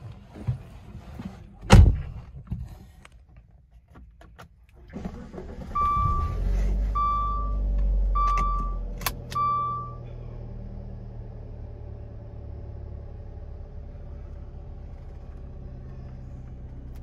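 A sharp knock, then the 2013 Dodge Dart's 1.4-litre turbocharged four-cylinder engine starts about five seconds in, runs loudly for a few seconds and settles to a steady idle. Four short warning chimes sound about a second apart as it starts.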